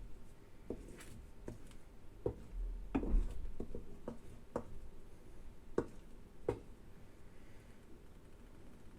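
Spatula knocking and scraping against a frying pan as an omelette is kept moving, about a dozen light, irregular taps that die away after about seven seconds.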